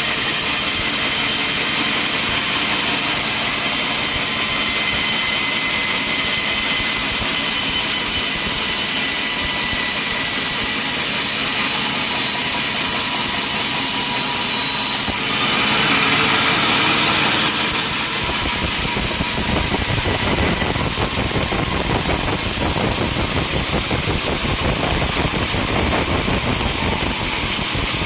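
Sawmill saw running steadily with a high whine, cutting timber; about fifteen seconds in it turns harsher for a couple of seconds, and from about eighteen seconds a heavier low rumble joins in.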